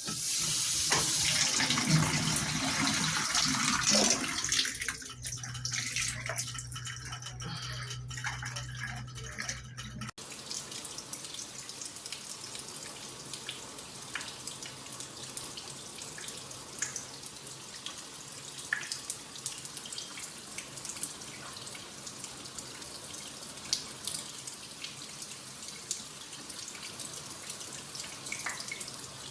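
Shower water spraying from a filtered shower head, loud for the first few seconds, then joined by a steady low hum for about five seconds. After a sudden break about ten seconds in, quieter running water with scattered drips.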